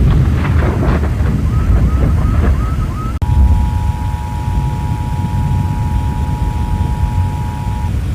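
A loud, low rumble with scattered knocks and brief chirps. About three seconds in, after an abrupt cut, the Emergency Alert System's two-tone attention signal sounds: a steady dual tone held for about four and a half seconds over the rumble. It marks a tornado warning alert.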